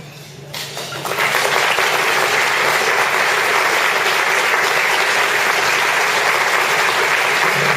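Banquet audience applauding, starting about a second in and holding steady and loud, for an award recipient called to the front.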